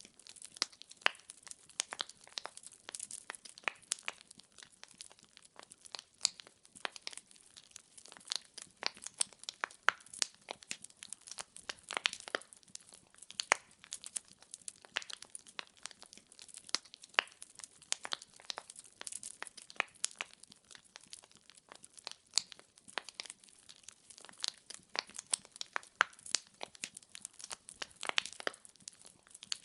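Burning firewood crackling: a steady stream of irregular sharp pops and snaps, with almost no low rumble under them.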